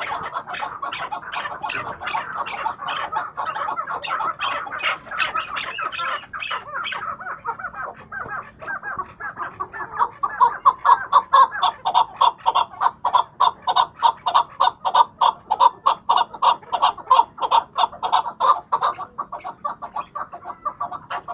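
Chukar partridges calling, a dense run of repeated clucking notes that grows louder and settles into a steady rhythm of about four to five notes a second from about halfway through.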